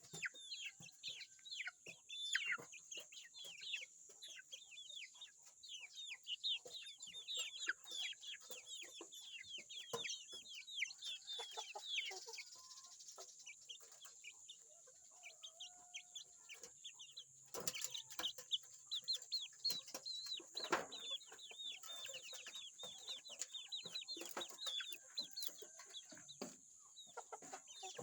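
Chickens clucking and peeping in a dense stream of short, rapid calls as they feed, with a few sharp knocks among them.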